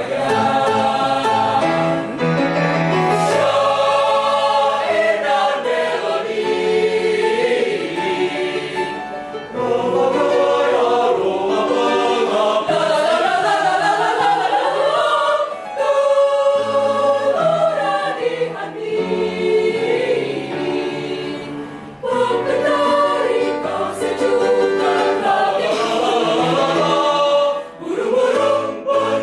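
Choir singing in phrases, several voices moving together, with short breaks between phrases.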